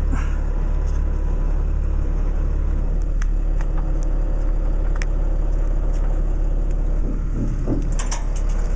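A vehicle engine idling steadily, a low rumble with a constant hum, with a few short clicks.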